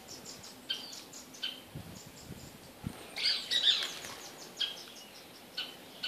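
Small birds calling in short high chirps about once a second, with a louder, busier burst of sound about three seconds in.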